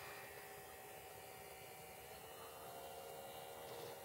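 Faint, steady whine of a distant electric model airplane's motor, a few held tones over a soft hiss, drifting slightly in pitch near the end.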